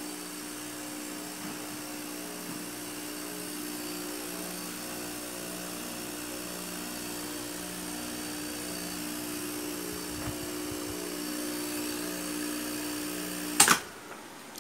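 Steady electrical hum of the demonstration loads, an electric fan with a compressor running through a magnetic contactor, with a held tone and a lower throb that pulses. Near the end a single sharp click, a breaker or switch being thrown, and the running hum drops away as the power is cut.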